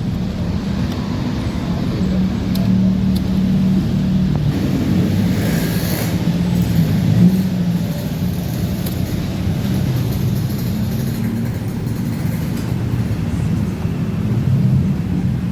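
Honda Vario 125 scooter engine running steadily with a low hum.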